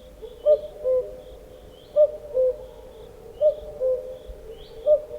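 Bird giving a repeated two-note call, a higher note falling to a lower one, four times about every second and a half, with faint high chirps of other birds behind it.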